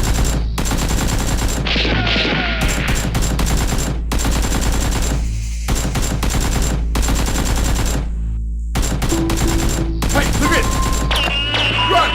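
Bursts of rapid automatic gunfire, staged-battle sound effects, in runs of dense shots broken by short pauses, over background music.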